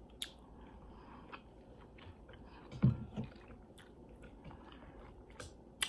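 Close-miked chewing and biting: scattered wet mouth clicks and smacks. There is a louder low thump about three seconds in.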